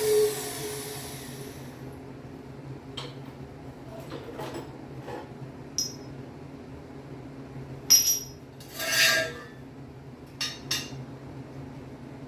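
A power tool winds down and stops in the first second or two. Then metal tools are handled on the workbench: scattered clinks and knocks, with a short scraping rush about nine seconds in.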